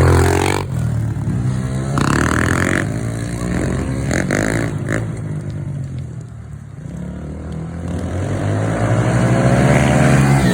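Pit bike engine revving as it is ridden. It fades to its quietest a little past the middle, then grows louder again near the end as the bike comes back toward the microphone.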